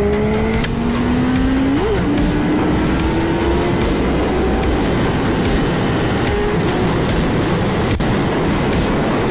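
Motorcycle engine accelerating hard, its pitch climbing steadily, with a brief jump and a gear change about two seconds in. From about four seconds in, the engine fades under a steady rushing noise.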